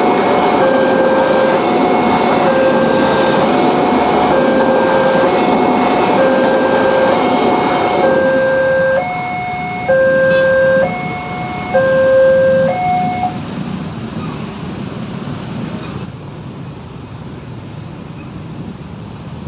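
Railroad level-crossing warning alarm sounding a two-tone electronic bell, a low note and a higher note taking turns about every 0.8 seconds, over the loud rumble of a passing train. The train noise drops away about eight seconds in, and the alarm stops a few seconds later, leaving quieter road traffic.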